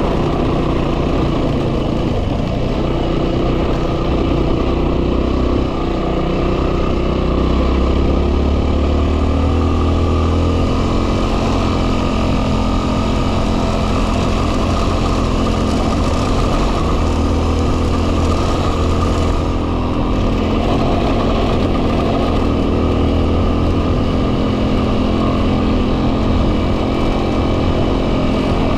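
Yamaha WR250R's single-cylinder four-stroke engine running at a steady cruising pace, its pitch shifting a little a few times, under heavy wind noise on the microphone.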